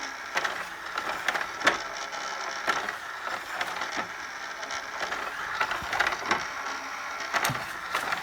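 CD tray mechanism of an LG DM5540 mini hi-fi turning, with irregular mechanical clicks a few times a second, on a unit with a no-sound fault.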